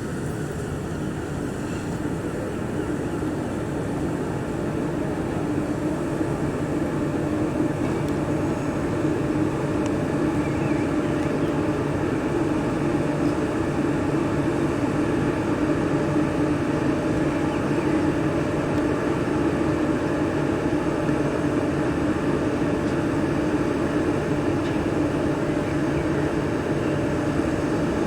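A heritage railway train running, a steady rumble that builds a little over the first several seconds and then holds even.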